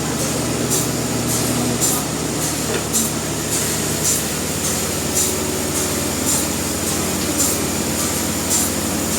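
Industrial sawmill machinery running steadily: a continuous low mechanical drone with a regular sharp hiss repeating about twice a second.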